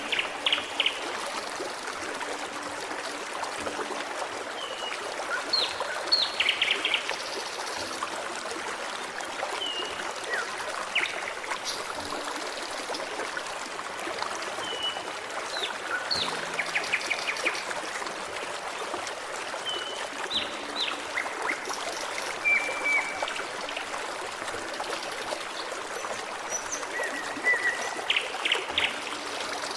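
Forest stream flowing steadily over rocks, with songbirds calling and singing throughout: short whistled notes and quick trills.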